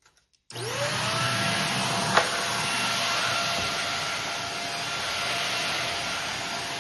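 Vacuum cleaner switched on about half a second in, its motor whine rising quickly to a steady pitch and then running steadily. A brief sharp knock sounds about two seconds in.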